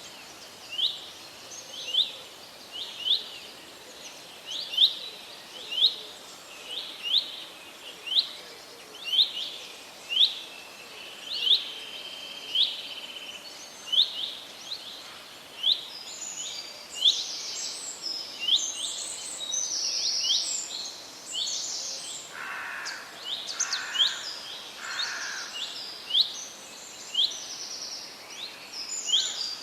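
Forest birdsong: one bird repeats a short, rising chirp about once a second. About halfway through, other birds join with higher, denser calls and a few lower notes. A faint steady hiss of background ambience runs underneath.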